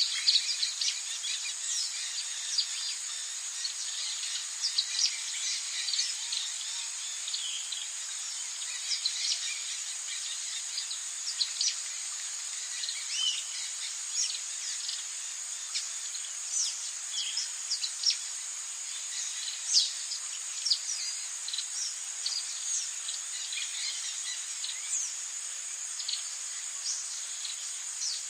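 Rainforest ambience: a steady high-pitched insect drone with many short, quick bird chirps and calls scattered over it.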